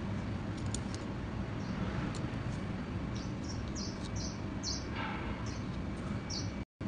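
Steady low background rumble with a run of short, high chirps from small birds in the middle, and a few faint ticks. The sound drops out for a moment near the end.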